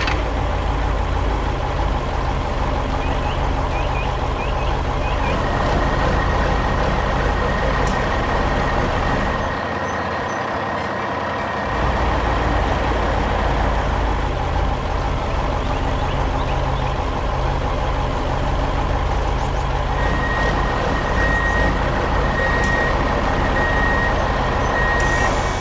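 Heavy truck engine running steadily, its level dropping briefly about ten seconds in, with a thin high tone running over it for much of the time.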